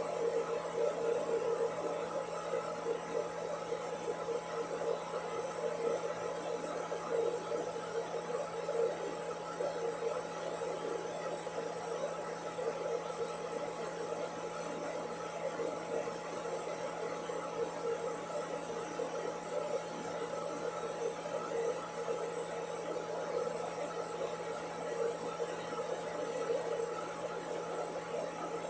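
Hair dryer running steadily: a constant whirring rush of air with a motor hum underneath.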